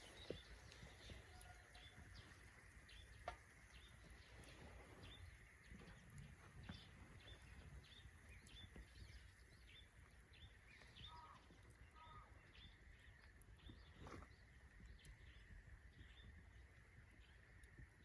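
Faint outdoor quiet with a small bird chirping over and over, a few short high notes a second, and a few soft clicks.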